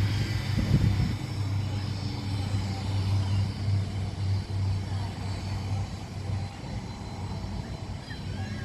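An engine running with a steady low hum that slowly fades over the last few seconds.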